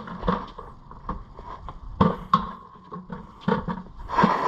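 Intermittent knocks and clicks of parts being handled as an intercooler pipe is worked loose in a car's engine bay, with a few sharper knocks about two seconds in and near the end.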